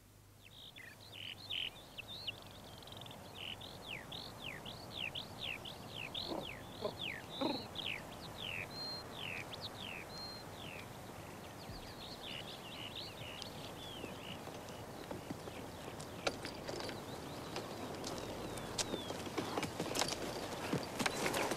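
Birdsong: quick, steeply falling chirps repeated about twice a second, with other birds calling. From about three-quarters of the way through, sharp clicks and knocks come in over a rising background hiss.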